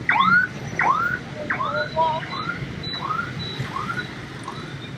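Electronic alarm siren sounding a run of repeated rising-and-falling chirps, about two a second, growing fainter, over the noise of street traffic.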